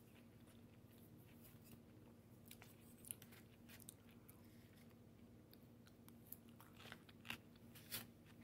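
Faint chewing of crunchy coleslaw close to the microphone: soft, scattered crunching clicks, with a few louder crunches near the end.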